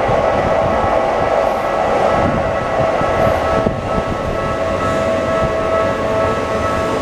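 Keikyu 1000-series train running past at a level crossing: a loud, steady rumble of wheels on rail, with the crossing's warning bell ringing over it as even, steady tones.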